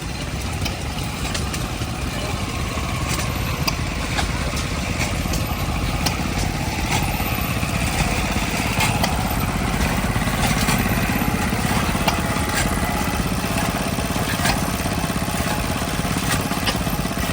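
An engine running steadily with a fast, low chugging, getting a little louder over the first half.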